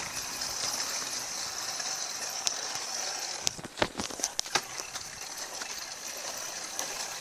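A small dirt bike being ridden, rattling and knocking, with a cluster of sharp clicks about three and a half to four and a half seconds in. A steady high hiss runs underneath.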